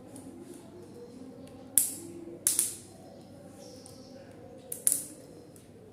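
Curved toy train track pieces clacking sharply as they are handled and fitted together: four short clacks, two about two seconds in and a quick pair near the end.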